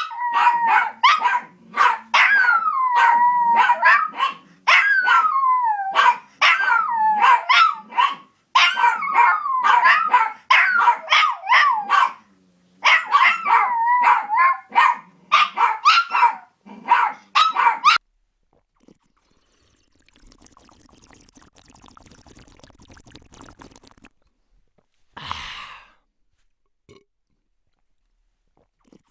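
Fast run of short, high-pitched barking yaps with wavering pitch, stopping about 18 seconds in. A faint hiss and one short sound follow.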